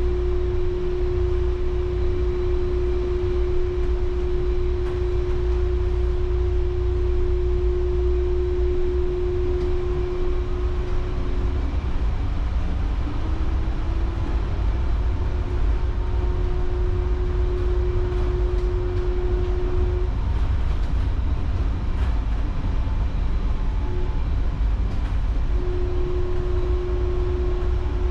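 Taipei Metro Brown Line rubber-tyred train running, heard from on board: a steady low rumble with a steady humming tone from the drive. The hum cuts out for a few seconds about twelve seconds in and again about twenty seconds in, then returns, with a short rising tone in the first gap.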